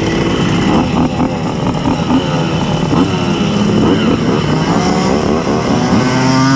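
Several Simson two-stroke moped engines running together, their pitches wavering up and down as the throttles are blipped; one revs up sharply near the end.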